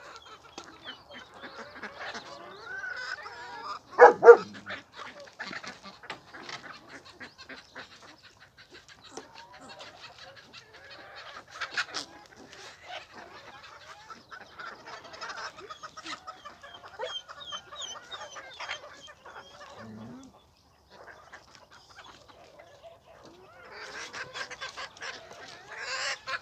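Farmyard poultry calling on and off: scattered short clucks and squawks, with one loud call about four seconds in and busier calling near the end.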